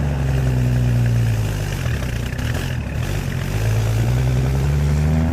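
An engine running steadily, its pitch sagging in the middle and climbing back near the end.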